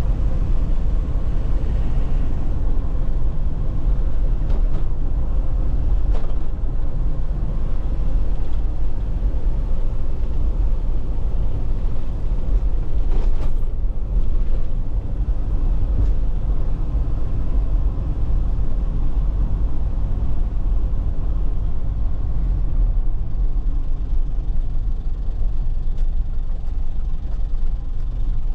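2001 Nissan Cabstar light truck driving: a steady low engine and road rumble, with a few short knocks over the rough road surface, the clearest about halfway through.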